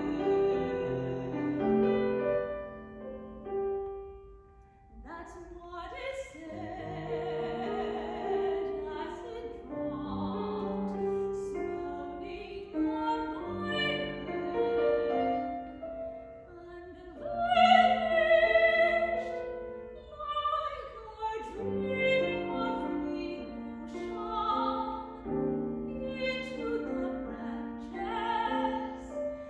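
Classical art song sung in operatic style with piano accompaniment, the voice holding long notes, with a brief lull about four seconds in.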